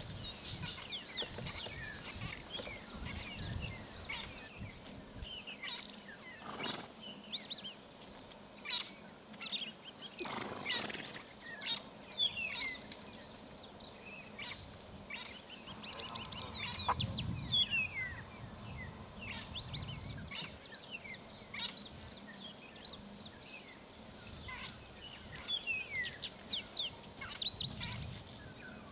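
Wild birds calling: many short, quick chirps and whistles from several birds, many of them sweeping down in pitch, overlapping throughout.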